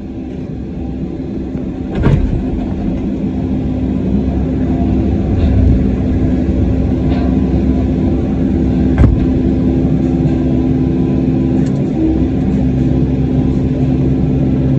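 Excavator diesel engine running steadily under work, with two sharp knocks, about two seconds in and again about nine seconds in.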